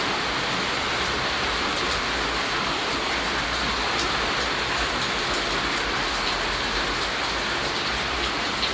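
Steady rainfall, a dense even hiss with scattered individual drops ticking on a surface.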